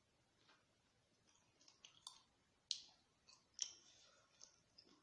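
Faint eating noises: a few soft clicks and smacks from a mouth chewing spicy cucumber salad, scattered through the middle, with near silence between them.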